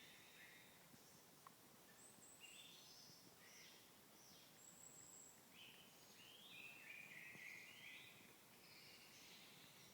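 Faint birdsong: several short chirping notes, some sliding or stepped, and a couple of thin high whistles, coming in clusters over a steady low hiss.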